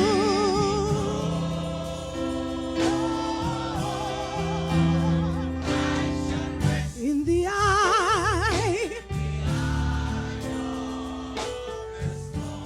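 Gospel singing over sustained accompaniment chords. The singer holds long notes with a wide vibrato near the start, and sings another held, wavering phrase from about seven to nine seconds in.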